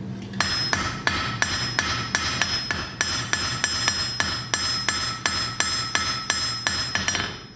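Hand forging hammer striking hot iron stock on an anvil in steady, quick blows, about three to four a second, each blow ringing. The blows start about half a second in and stop briefly near the end.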